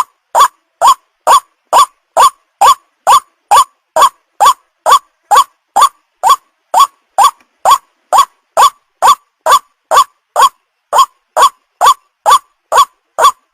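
White-breasted waterhen (ruak-ruak) call played as a bird-catching lure: short, loud, pitched notes repeated evenly about twice a second without a break.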